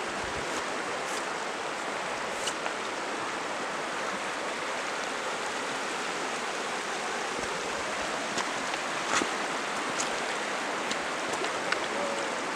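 Steady rushing of a stream running over rocks, with a few sharp clicks scattered through it.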